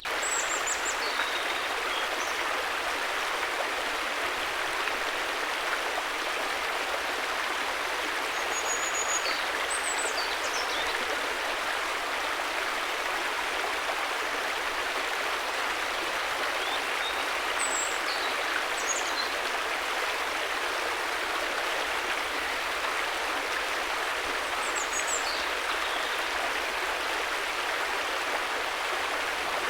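River water flowing in a steady, continuous rush with no change in level. Brief faint high chirps come now and then over it.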